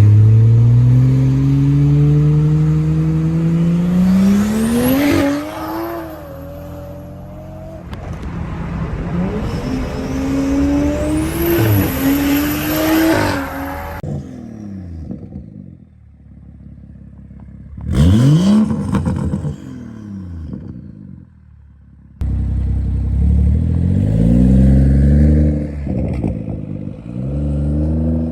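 BMW 340i's B58 3.0-litre turbocharged inline-six through a single-exit exhaust, in separate clips: two hard pulls with the engine note climbing steadily, then a single sharp rev blip, then several quick revs rising and falling.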